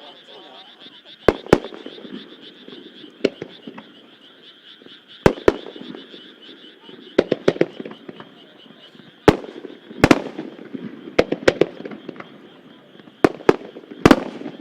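Fireworks starmine barrage: sharp aerial shell bursts at uneven intervals, some in quick clusters, with crackling after the loudest bangs about ten seconds in and near the end. Underneath runs a steady high chorus of frogs.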